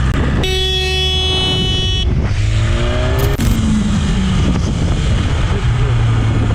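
Steady road and engine rumble while riding in traffic. About half a second in, a vehicle horn blares steadily for about a second and a half. Right after it, an engine revs up briefly with a rising pitch.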